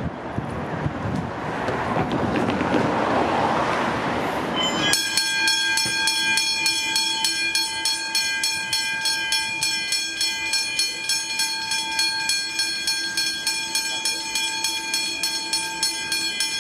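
Siemens electric suburban train running past the level crossing, a rising rush of wheel and motor noise. About five seconds in this gives way abruptly to the level-crossing bells ringing steadily at about three strokes a second while the red warning lights flash.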